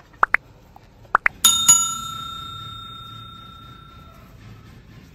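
Two pairs of quick rising swishes, then two sharp metallic strikes about a second and a half in, each leaving a clear bell-like ring that fades out over a couple of seconds.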